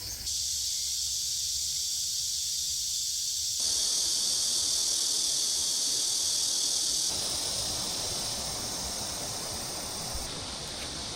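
Insects buzzing in a steady high-pitched chorus, the level stepping up or down abruptly three times.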